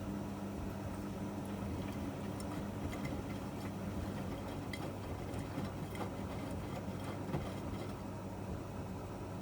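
Miele MedicWash W2585 front-loading washing machine running a wash cycle: a steady motor hum with scattered light clicks and ticks as the drum turns. The higher part of the hum fades out about halfway through.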